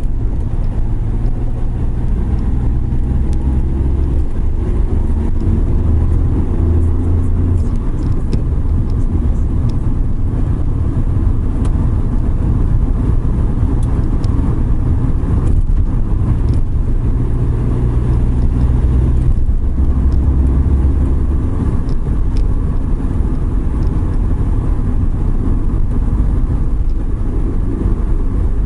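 Suzuki Every Wagon kei van driving on a rain-wet road: a steady low engine and drivetrain rumble whose note shifts every few seconds, under a constant hiss of tyres on the wet surface.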